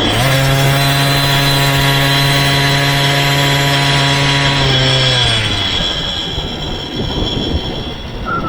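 Motorized bicycle's small engine held at steady high revs, then dropping in pitch about five seconds in as the revs fall away.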